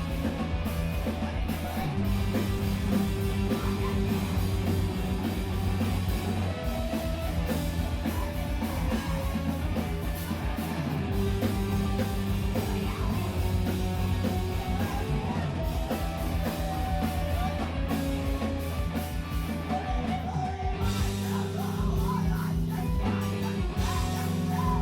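Emo/screamo band playing live: distorted electric guitars, bass and drum kit, with the chords changing every few seconds.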